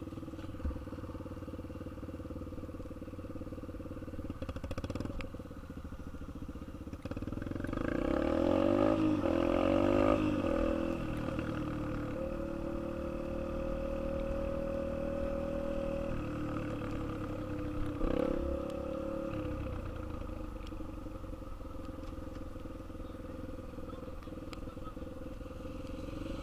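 Dirt bike engine running at idle; its engine speed picks up about eight seconds in and holds a steady higher note, then drops back to idle a little after the middle.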